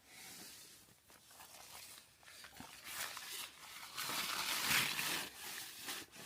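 Tent fabric rustling and crinkling in irregular bursts as the groundsheet is handled and folded back, with small clicks; loudest about four to five seconds in.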